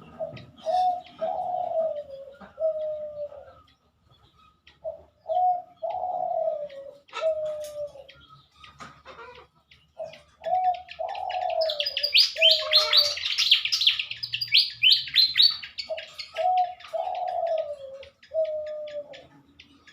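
A dove coos a three-note phrase four times, about every five or six seconds. From about twelve to fifteen seconds in comes a loud burst of rapid, high, squeaky chirping from a small songbird, the pied fantail.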